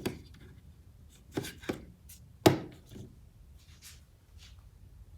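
Scattered clicks and knocks of plastic toy robots being handled and set down on a hard surface, about half a dozen short strikes with the loudest about two and a half seconds in.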